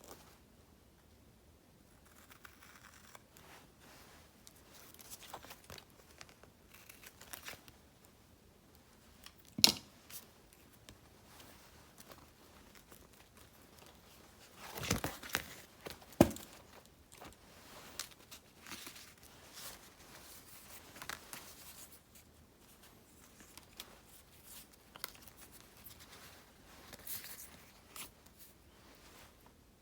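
Paper and stickers being handled during journal decorating: sheets rustle and crinkle and stickers are peeled, with scattered light ticks. A sharp tap comes about ten seconds in, and a louder rustle ending in a tap comes about fifteen seconds in.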